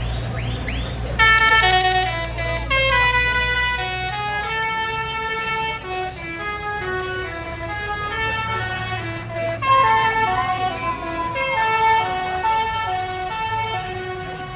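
A musical multi-note horn on a passing tractor playing a tune in quick stepped notes, starting abruptly about a second in, over the low rumble of tractor engines.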